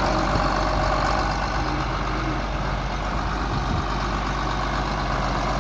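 John Deere 4650 tractor's six-cylinder diesel engine running steadily.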